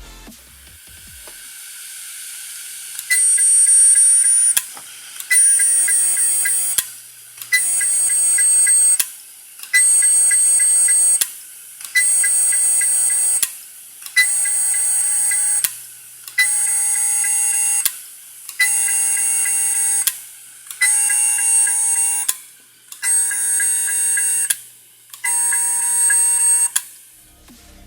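Seagate ST31000528AS 3.5-inch hard drive beeping over and over, about once every two seconds, each beep starting with a click and lasting about a second and a half. It is the abnormal noise of the failed drive, typical of a spindle motor that cannot spin the platters up.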